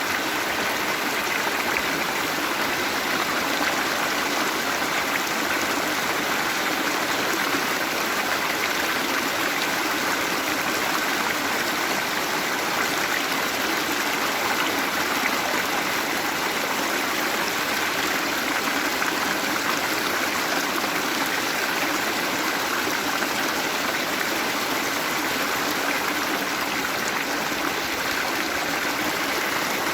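Waterfall: a steady rush of falling and running water that does not change.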